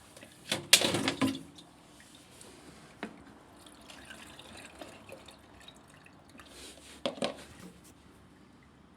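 Water dripping and splashing, with sharp knocks and clatters of handling: loudest about a second in, a single click near three seconds, and another short clatter about seven seconds in.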